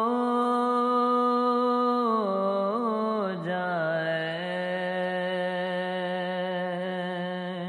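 A solo voice singing an Urdu naat, holding one long drawn-out note on the word 'ho'. It steps down in pitch about two seconds in and again about three and a half seconds in, with a brief ornament between.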